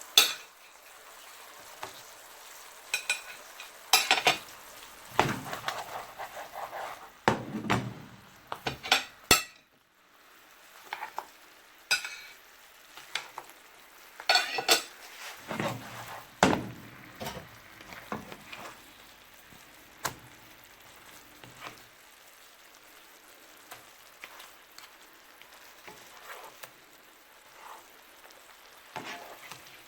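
Food sizzling in a pan, with repeated knocks, clinks and scrapes of a utensil stirring against the pan.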